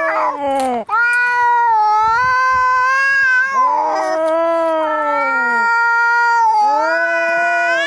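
Angry cats caterwauling: long, drawn-out yowls that waver in pitch, following one another with barely a break. A short harsh noisy burst comes just after the start and another about four seconds in.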